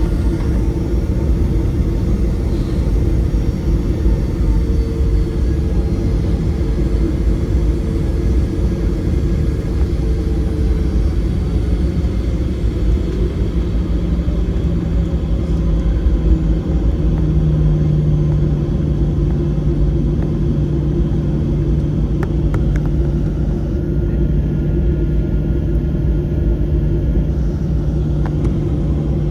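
Steady low rumble of jet engines and airflow heard inside the cabin of a Boeing 737-700, with a steady hum that grows stronger about two-thirds of the way through.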